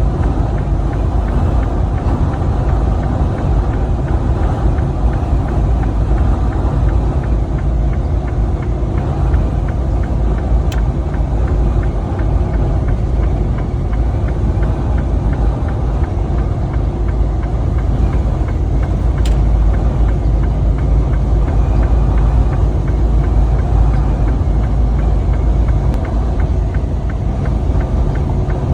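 Steady low rumble of a truck driving at road speed, its engine and road noise mixed with high wind buffeting.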